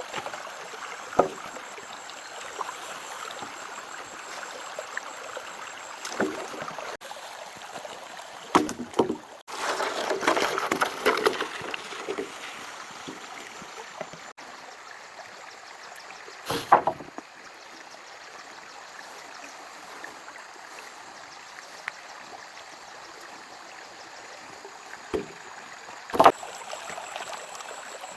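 Steady running water like a stream, broken by a few sharp knocks and a louder stretch of splashing or rustling about ten seconds in.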